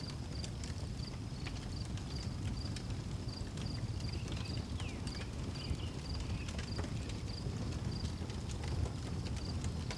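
Wood fire crackling and popping over a low steady rumble, with a cricket chirping at an even rhythm of about one and a half chirps a second. A bird calls briefly around the middle.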